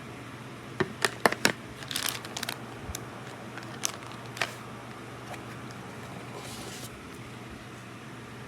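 Handling of the scanner's packaging and case: a run of sharp clicks and taps about a second in, a short crinkling rustle around two seconds, then a couple more taps near four seconds, over a low steady hum.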